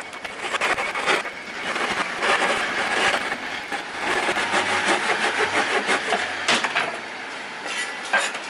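Wood being worked by hand: steady rubbing and scraping with scattered clicks and knocks, louder from about two seconds in.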